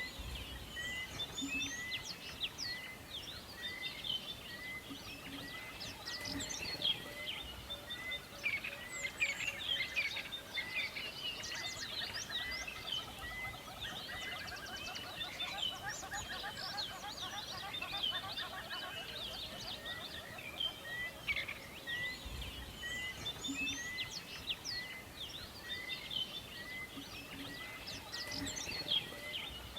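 A chorus of several songbirds chirping and singing over each other. One bird repeats a short note at an even pace of about one to two a second, and a fast trill comes in around the middle.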